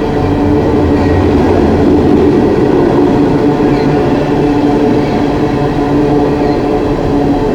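Long coal train rolling past, a loud, steady rumble of cars on the rails with a constant hum running through it.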